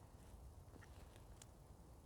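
Near silence: a faint low rumble with a few faint clicks, about a second in.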